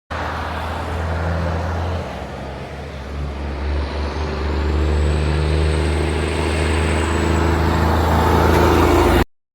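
Heavy truck diesel engine running with a steady low drone, growing louder toward the end, with a thin high whine that rises in pitch about four seconds in. The sound cuts off abruptly near the end.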